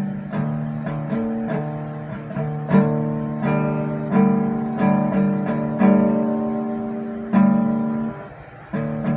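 Acoustic guitar played as a song's introduction: chords struck roughly every half second, each ringing out and fading, with a short pause a little after 8 seconds before the playing resumes.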